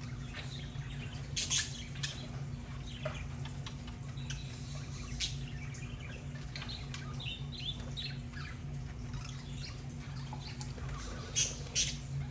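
Budgerigars chattering: a stream of short chirps, squeaks and quick warbles, with a few louder sharp calls about a second and a half in and again near the end, over a steady low hum.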